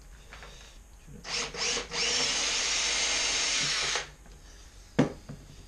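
Electric drill boring into a motorcycle exhaust can: two short blips of the trigger, then a steady run of about two seconds that stops suddenly. A single sharp knock follows about a second later.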